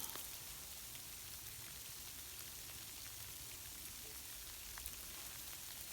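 Freezing rain falling steadily, an even hiss with a few faint drop ticks.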